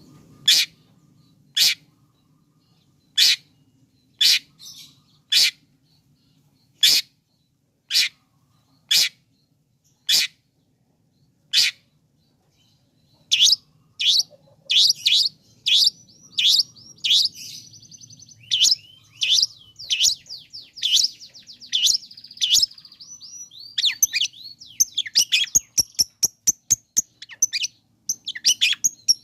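Long-tailed shrike (cendet) calling: single sharp, high notes about once a second, then from about halfway through a faster, varied chattering song, ending in a quick run of clicks. This is a provoking call used to stir a quiet shrike into singing.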